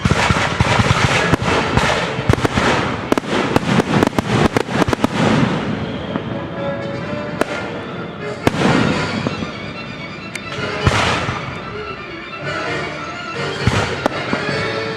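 Fireworks going off over orchestral music: a dense run of sharp cracks and bangs for the first six seconds or so, then single bursts every two to three seconds.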